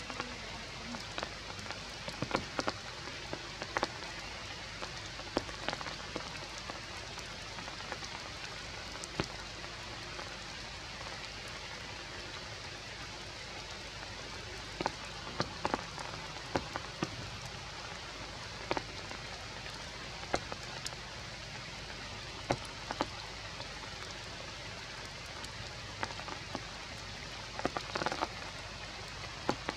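Rain falling on forest leaves: a steady hiss with louder drops striking at irregular moments.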